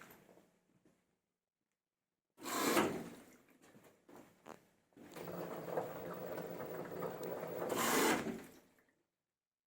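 LG washing machine drum being worked by hand on its shock absorbers. There is a sudden scraping clatter, then a few knocks, then a longer sliding rub of about three and a half seconds that grows louder and stops abruptly.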